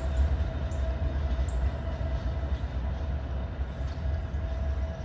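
Ohio Central diesel locomotives (EMD SD60s and a GP38-2) running light through a rail yard: a steady low engine rumble with a steady hum over it.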